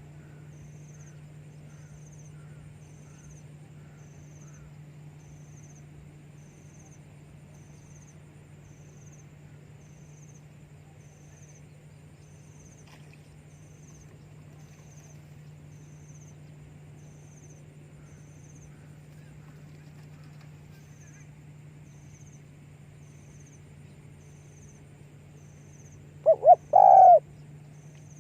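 Spotted dove cooing once near the end: two short notes quickly followed by a longer one, over a quiet background of a steady low hum and faint, evenly repeated insect chirps.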